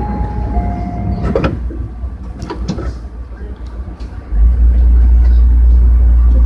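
Sound inside a Tobu 60000 series electric train: a low hum with scattered clicks and two short steady tones, then about four seconds in a loud low rumble starts suddenly and holds.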